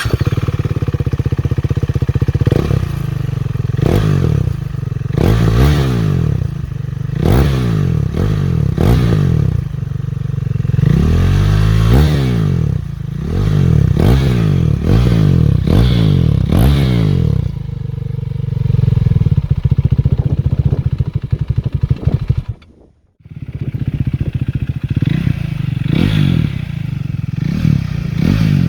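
KTM Duke 390's single-cylinder engine, breathing through a Scorpion slip-on exhaust with its dB killer removed, starting and then revved in a series of blips that rise and fall, before settling to idle. About two-thirds through, the sound cuts out briefly, then the revving picks up again.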